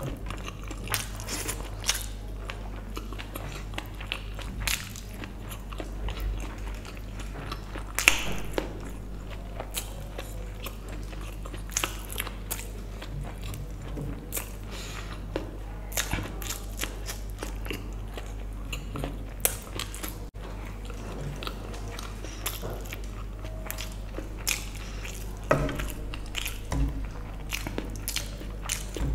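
Close-miked eating: a mouthful of vegetable biryani chewed, with many irregular short wet mouth clicks and small crunches, the loudest about eight seconds in. A steady low hum sits underneath.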